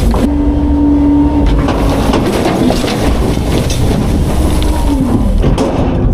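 Autocar-Heil Freedom half-pack front-load garbage truck running its hydraulics, with a steady whine over the engine rumble and scattered knocks and crunches. The whine drops in pitch about five seconds in.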